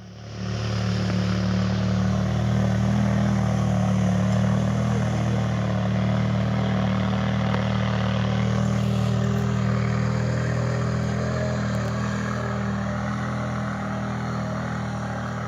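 Off-road vehicle engine running at a steady pitch, swelling in at the start and easing slightly quieter in the second half.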